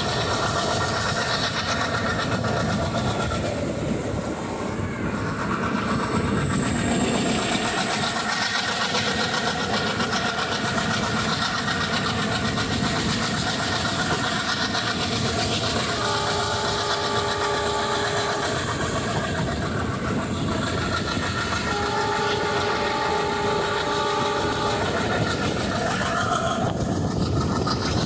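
A train running along the track with a steady rumble and wheel clatter. Its multi-tone horn sounds twice past the middle, each blast about three seconds long. A thin high whine slides slowly up and down in pitch throughout.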